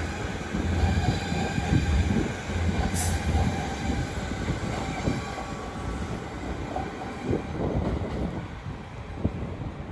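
Class 350 Desiro electric multiple unit departing and running away, its low hum fading after a few seconds, with a brief high hiss about three seconds in and a few wheel knocks over the track as it recedes.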